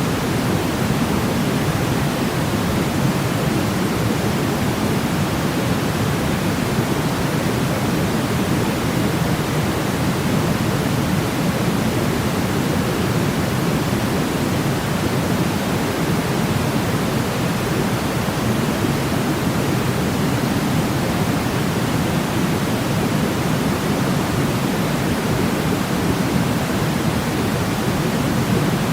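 Steady sleep noise, an unchanging hiss weighted toward the low end, like pink noise, with no breaks or variation.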